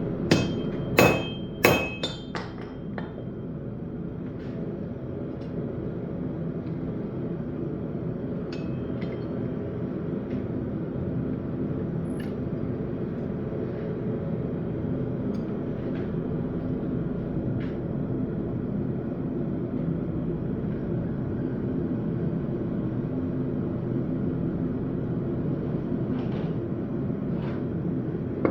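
About four hammer blows on hot steel at the anvil in the first few seconds, each with a short metallic ring. After that a steady low hum goes on underneath, with a few faint taps.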